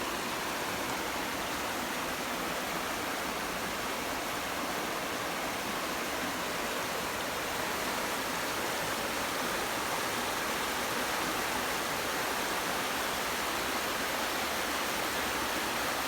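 River rapids rushing: a steady, unbroken hiss of fast-moving water.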